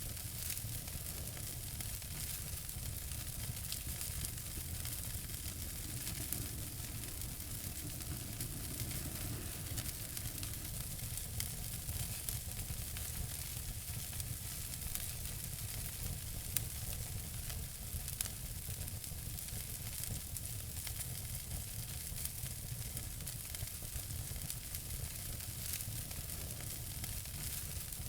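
Wood fire in a fireplace crackling: a steady hiss with many small scattered pops, and two louder pops a little past the middle.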